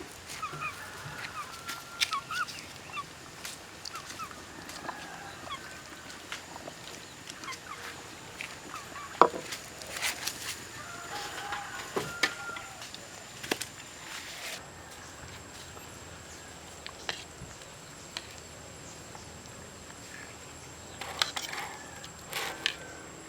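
Short bird calls, of the kind made by village poultry, with scattered sharp clicks and knocks; the loudest knock comes about nine seconds in, and a cluster comes near the end.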